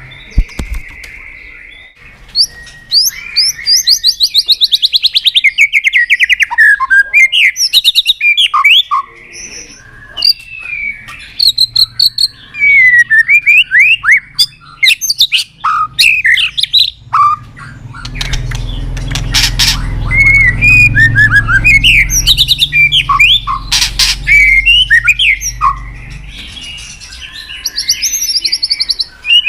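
White-rumped shama singing: a fast, varied run of loud whistles, glides and rapid trills. From a little past the middle, a low rumble with a few sharp clicks runs under the song for several seconds.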